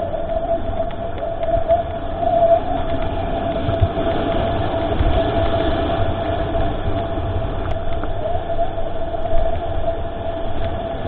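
Mountain bike riding a trail, heard through a mounted GoPro: low rumble from the tyres and wind on the microphone, with a steady high whine over it.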